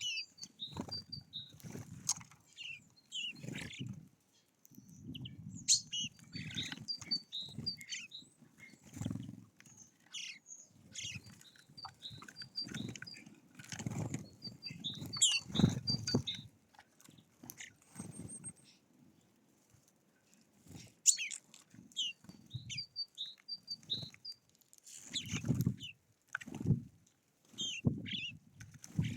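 Small songbirds chirping and twittering in short repeated phrases throughout, with intermittent low rumbling sounds underneath.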